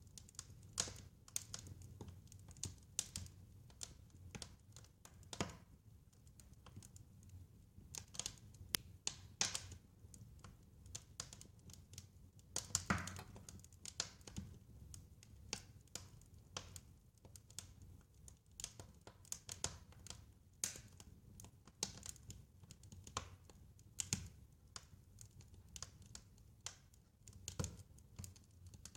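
Wood fire crackling: irregular sharp snaps and pops, a few a second, over a soft low rumble of flames.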